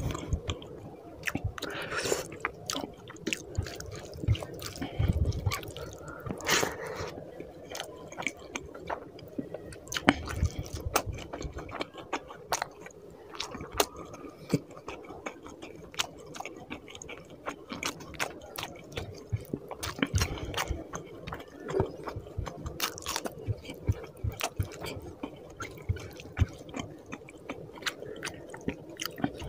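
Close-miked ASMR chewing of rice and rohu fish curry eaten by hand: wet mouth sounds with many small irregular clicks.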